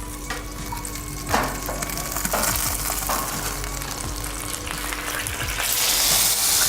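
Hot food sizzling in metal cookware, with a few light knocks of pans. A louder, higher hiss starts near the end.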